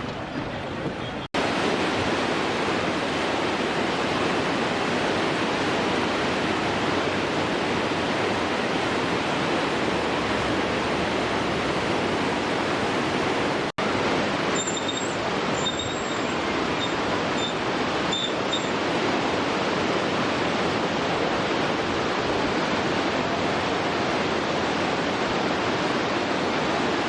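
Steady rushing of the flood-swollen Kabul River's water, cut off for an instant twice, about a second in and about halfway through.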